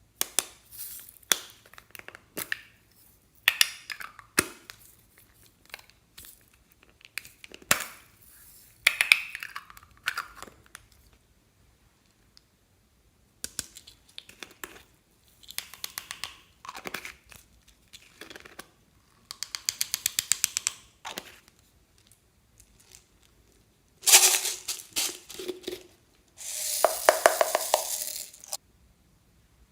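Slime being worked by hand: sticky crackling and rapid popping clicks in short bursts with pauses between them.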